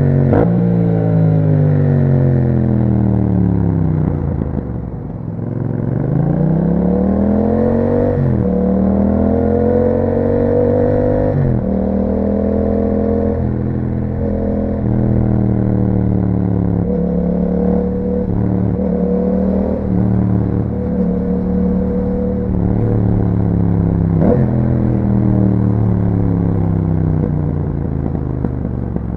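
2021 Yamaha MT-07's parallel-twin engine through an Akrapovic exhaust while riding. The note falls as the bike slows over the first few seconds, then climbs through two upshifts, each with a sudden pitch drop. It holds fairly steady at cruising revs, then falls away off the throttle near the end.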